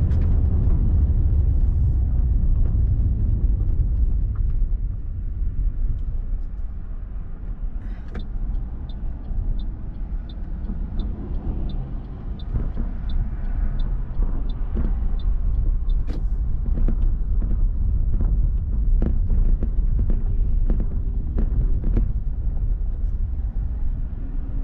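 Low, steady rumble of road vehicles and engines, louder at the start and again in the second half. A faint, regular high tick runs at about two a second through the middle stretch, with scattered short knocks.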